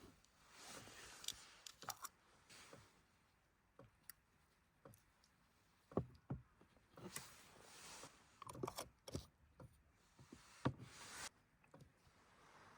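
Quiet, scattered knocks and clicks of small objects being handled, with soft rustling between; the sharpest knocks come about halfway through and again near the end.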